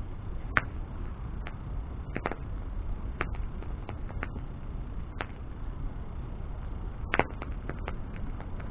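Wood bonfire burning: a low steady rumble with sharp crackles and pops every second or so, the loudest about half a second in and about seven seconds in.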